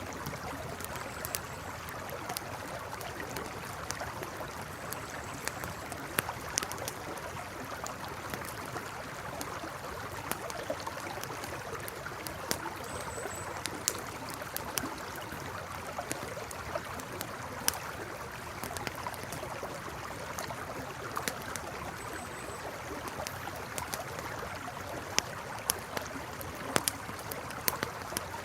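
Campfire crackling with irregular sharp pops, over the steady rush of a flowing river.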